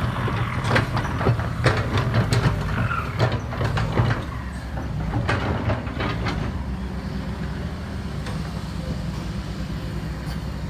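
Heavy diesel engines of earthmoving machinery, dump trucks and excavators, running with a steady low rumble. For the first six seconds there are repeated sharp metallic knocks and clanks, then the rumble carries on alone.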